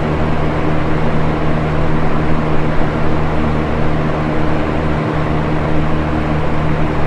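Electric box fan running steadily: an even rush of air over a constant low motor hum.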